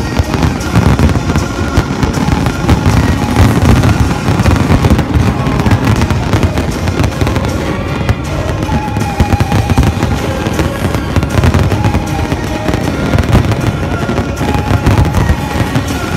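Fireworks display going off without pause: many overlapping bangs and crackles from bursting aerial shells, with music playing alongside.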